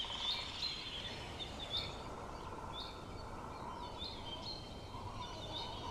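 Birds chirping in short repeated calls over a steady low background rush.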